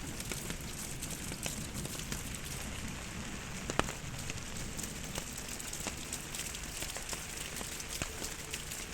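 Steady rain with many single drops ticking on nearby surfaces, picked up by binaural in-ear microphones as the head turns from left to right. One sharper drop lands about four seconds in.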